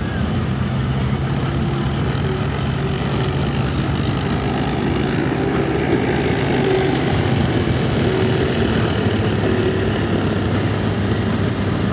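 A vehicle engine running steadily at a constant low pitch, with no revving.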